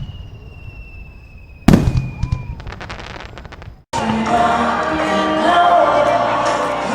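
Fireworks: a sharp bang, a high whistle slowly falling in pitch, then a louder bang about 1.7 s in followed by a second of crackling. About 4 s in the sound cuts abruptly to music with held notes.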